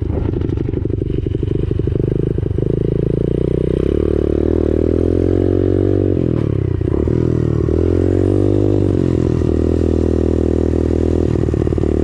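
X-Pro Storm 125cc pit bike's single-cylinder four-stroke engine running at low speed: steady at first, then revved up and eased back off twice.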